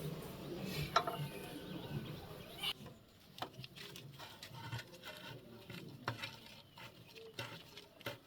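Scattered light clicks and taps, irregular and uneven, over a denser rustling noise for the first few seconds; the clicks grow sparser after about three seconds.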